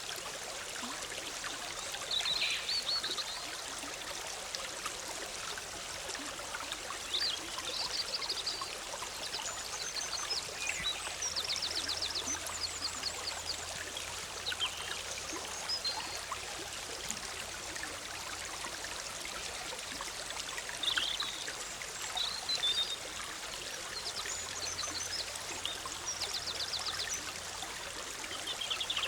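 Forest stream bubbling steadily, with songbirds calling on and off above it, a few of the calls short rapid trills.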